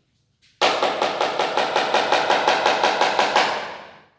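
Rapid, even tapping on a board, about seven sharp taps a second, as the table is begun in writing. It starts about half a second in and fades out near the end.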